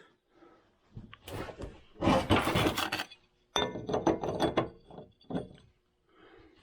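Metal tools and parts rattling and scraping while being handled, in two stretches, the second with a few ringing metal clinks.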